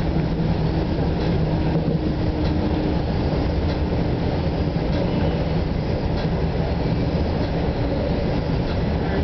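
Inside a New Jersey Transit Arrow III electric multiple-unit railcar in motion: the steady rumble and rail noise of the wheels running on the track, with faint ticks about once a second.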